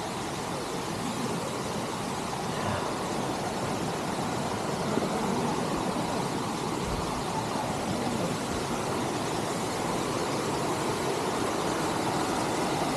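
Steady rush of creek water flowing downhill, an even hiss with no let-up.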